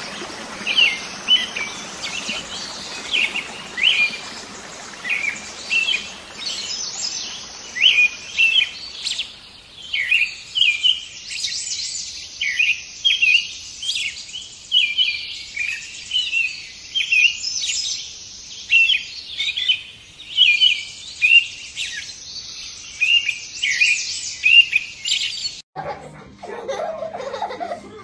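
Birds chirping and singing: many short, high calls in quick succession. They cut off suddenly about two seconds before the end.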